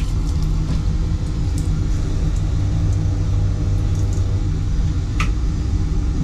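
Steady low rumble of an SNCB M7 double-decker train running, heard from inside its toilet cubicle, with a few faint clicks.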